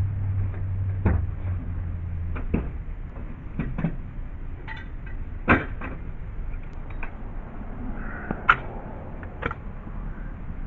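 Scattered knocks and clicks of objects being handled and set down, with two sharper knocks about five and a half and eight and a half seconds in. A low steady hum runs under the first couple of seconds.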